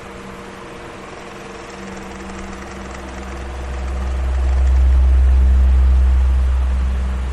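Electric fan running steadily, with a motor hum and the rush of its air. A deep rumble swells up about four seconds in and fades near the end.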